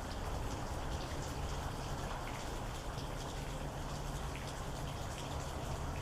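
Steady rain falling, with many individual drops tapping distinctly over a low, even rush of water.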